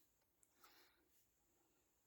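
Near silence: faint room tone, with a soft click about half a second in.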